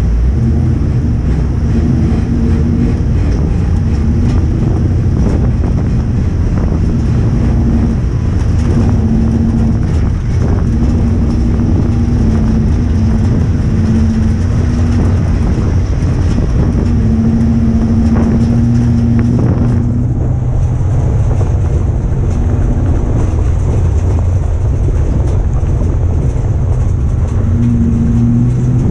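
Ford Crown Victoria's V8 engine running hard at racing speed, heard from inside the stripped cockpit. The engine tone swells and drops back in stretches as the throttle opens and closes through the turns, over a steady rumble with scattered rattles.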